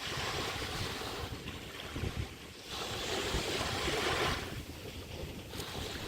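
Chesapeake Bay waves washing up on the beach, surging twice, the second swell the louder, with wind buffeting the microphone.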